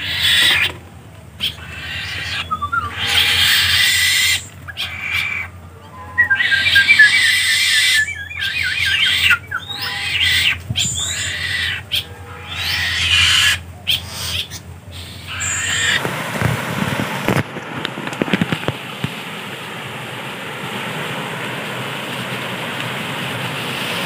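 Shrill bird calls in loud, broken bursts, some in quick chirping series, for about sixteen seconds; then they give way to the steady rush of water spilling over small waterfall cascades in a stream.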